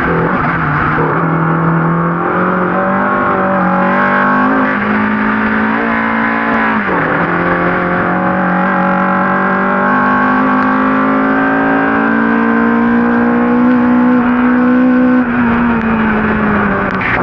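Ford Cortina race car's engine at full throttle, revs climbing slowly, dropping sharply once about seven seconds in at a gear change and climbing again. The revs fall near the end.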